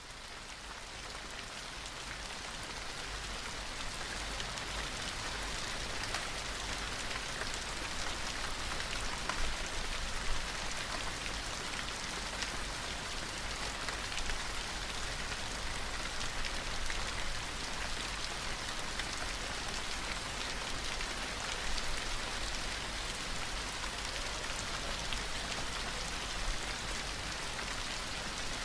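Steady rain falling, an even hiss with small scattered drop ticks, fading in over the first few seconds and then holding level.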